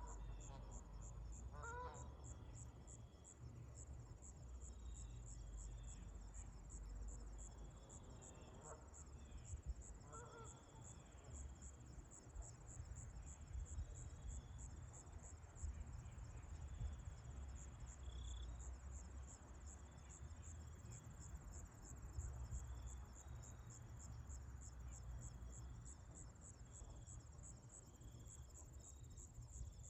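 Faint outdoor pond ambience: geese honking a few times in the distance, the first few seconds in and again around ten seconds, over a low wind rumble and a high, evenly pulsing chirping that runs throughout.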